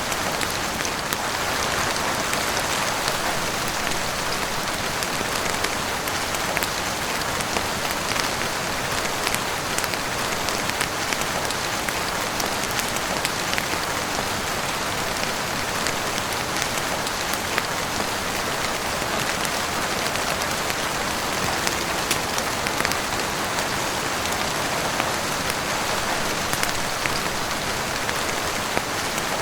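Heavy rain falling steadily on a roof and windows, an even dense hiss with scattered sharp ticks throughout.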